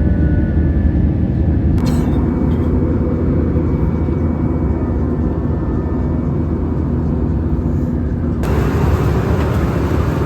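Steady low rumble of a moving vehicle. Its upper part turns brighter abruptly about two seconds in and again near the end.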